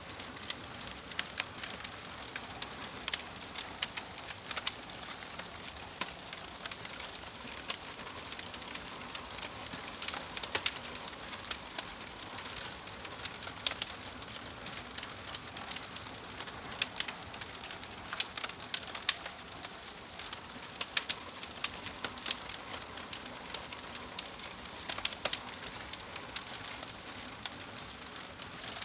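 Fire crackling: a steady hiss with frequent, irregular sharp snaps and pops.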